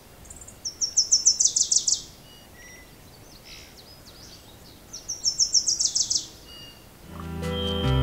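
A songbird singing two phrases a few seconds apart, each a quick run of high, evenly spaced notes lasting about a second and a half, over faint outdoor hiss. Acoustic guitar music comes in near the end.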